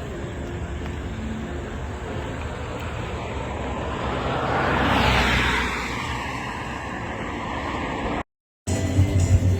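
A car drives past close by: its engine and tyre noise swell to a peak about halfway through, then fade. Near the end the sound cuts out briefly and music begins.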